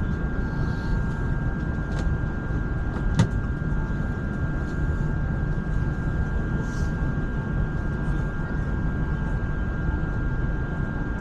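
ETS electric train running, a steady low rumble heard from inside the carriage, with a constant high hum of two close tones. One sharp click about three seconds in.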